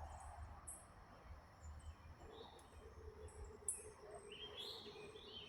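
Faint birdsong: a few short high chirps, then warbling phrases near the end, over a low rumble. A faint steady hum joins about halfway through.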